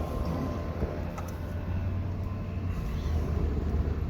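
Car being driven, heard from inside the cabin: a steady low engine and road rumble.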